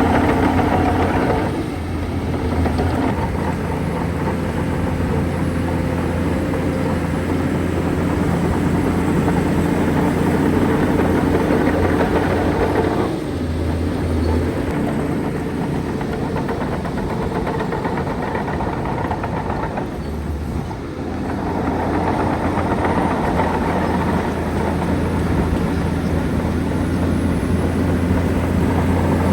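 Heavy diesel engine of a bulldozer running steadily while working, its note dipping and picking back up three times.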